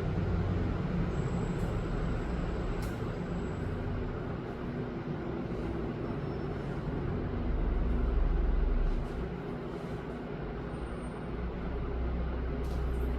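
Steady low background rumble with a noise haze, swelling louder about seven seconds in and dropping back shortly after.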